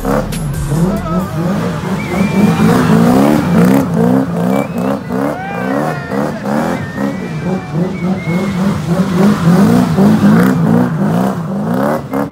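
Modified car engine revving hard again and again, its pitch climbing and dropping in quick succession, with sharp cracks and pops scattered through.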